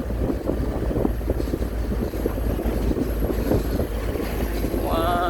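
Steady low rumble of a moving vehicle, with choppy wind buffeting on the microphone and a faint high whine over it. A voice starts right at the end.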